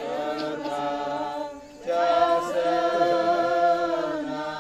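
A group of voices singing a slow hymn-like melody without accompaniment, in long held notes, with a short pause for breath a little before the middle before the next phrase starts.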